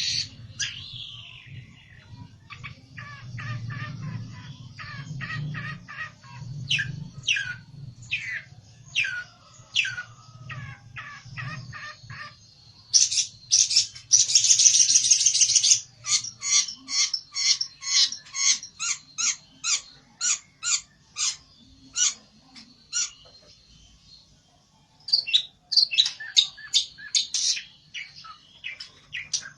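Pelentet songbird calling in rapid strings of sharp chipping notes, with a loud buzzy rattle about halfway through, a short pause, then the notes starting up again. This is agitated, challenging song from a bird worked up against a rival. A low hum runs underneath during the first half.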